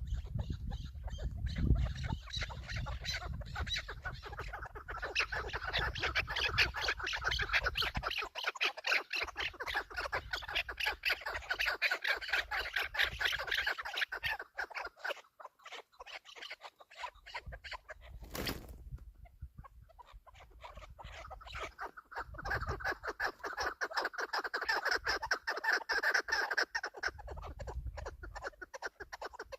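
Chukar partridge calling: long runs of rapid clucking notes in two bouts, with a quieter stretch between them. A single short sharp sound falls midway.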